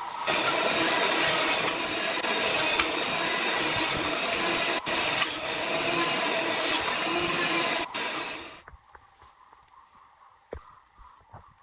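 Power tool working wood, running loud and steady for about eight seconds, then stopping suddenly. A few light knocks follow.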